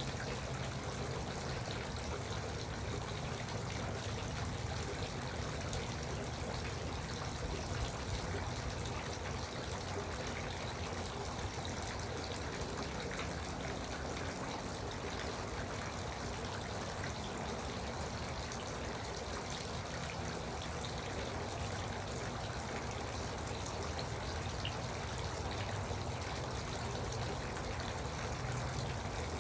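Garden water fountain running steadily, water falling and splashing without a break.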